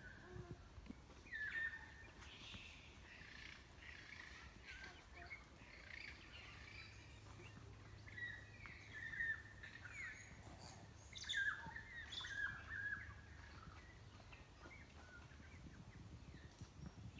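Several forest birds calling, short bright chirps and whistled calls scattered throughout and busiest in the second half, over a faint low rumble.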